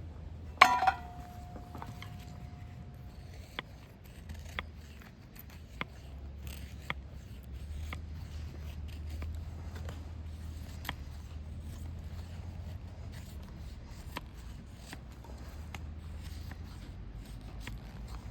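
A sharp metallic clink about half a second in, ringing on as one clear tone for about two and a half seconds. Scattered small clicks, taps and scrapes of things being handled follow, over a steady low hum.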